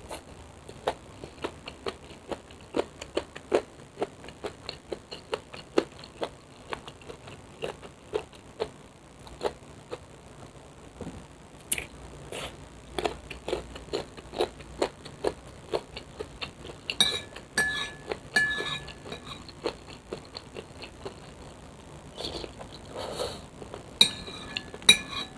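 Close-miked eating sounds of a noodle mukbang: a long run of short, wet mouth clicks from chewing, about two or three a second. After about 17 seconds the sounds turn busier and more mixed.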